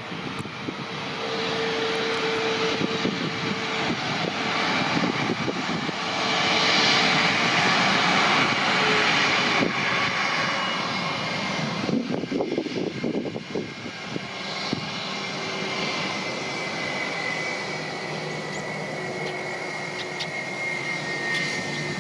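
Airliner engines running, loudest about seven seconds in, with a high whine that slowly falls in pitch through the second half.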